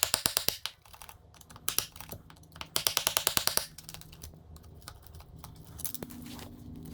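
Motorcycle O-ring drive chain being handled as it comes off the bike, its links clicking and rattling in quick runs of about a dozen clicks a second. The longest and loudest run comes about three seconds in, with scattered single clicks between the runs.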